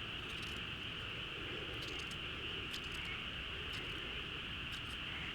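Evening insect chorus, crickets or similar, making a steady high chirring, with scattered short sharp ticks above it every second or so.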